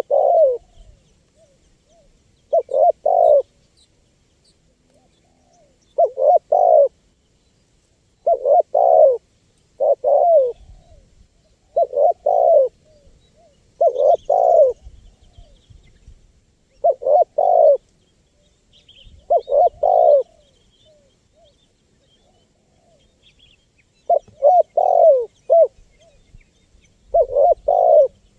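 Spotted dove (tekukur) cooing in short phrases of two to four low, hooting coos. The phrases repeat every two to three seconds with quiet pauses between them.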